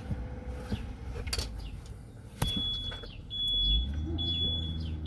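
A sharp click, then a high-pitched electronic alarm beeping on and off repeatedly from about halfway through. A low engine hum rises near the end, and short high chirps sound throughout.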